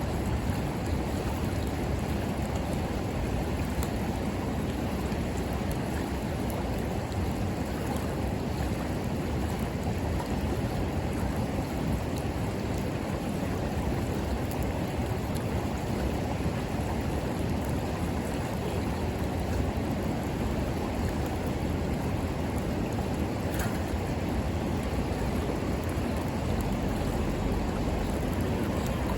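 River water flowing steadily, with the odd faint pop from the bonfire's burning wood.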